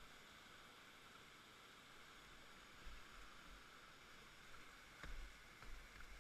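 Faint, steady rush of river water, with a few dull low bumps about three and five seconds in.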